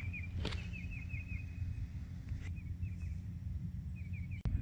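A bird calling outdoors in quick runs of short high chirps, one run in the first second and a half and another near the end, over a steady low rumble. A single sharp click about half a second in.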